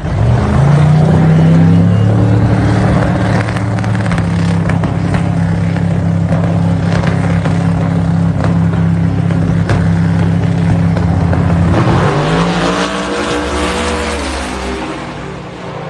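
Drag-racing truck engine running loud at a steady high rpm for about twelve seconds, then swinging up in pitch near the end as the sound fades.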